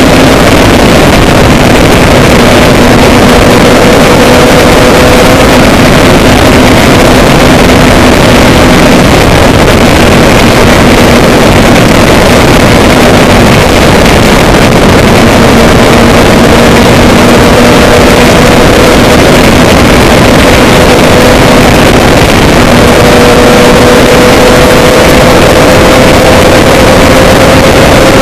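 A vehicle engine droning steadily, its pitch drifting slightly, under a loud, even rushing noise.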